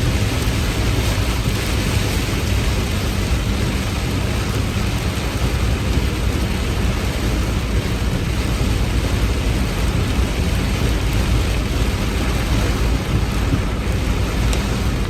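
Heavy rain falling steadily, with a deep, even rumble underneath.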